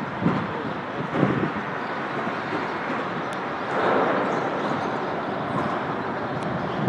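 Steady rumble and tyre hiss of interstate highway traffic, swelling briefly about four seconds in as a vehicle passes.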